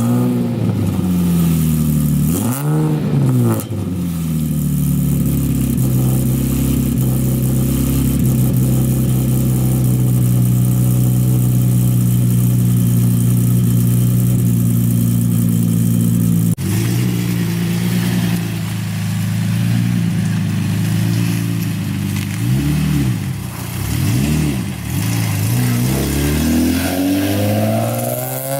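Infiniti G35's built V6 running with its exhaust silencers removed, settled at a fast cold idle and blipped briefly about three seconds in and several times in the last third. The exhaust note is a little raspy, which the owner puts down to an exhaust leak.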